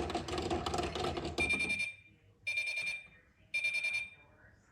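A washing machine's electronic signal beeping three times, about a second apart, each a high buzzy tone. A dense rattling noise comes before the beeps.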